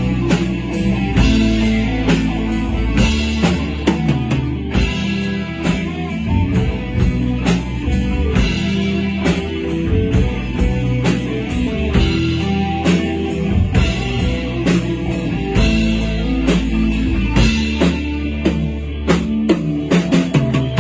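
Rock band of electric guitars, bass guitar and drum kit playing an instrumental passage of the song, drums keeping a steady beat under the guitar lines, with no singing.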